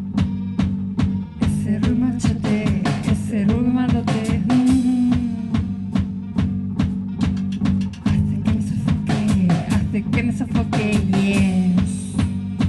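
Post-punk band playing live with only electric bass and drum kit: a steady drum beat under a repeating bass line. A woman starts singing about a second and a half in.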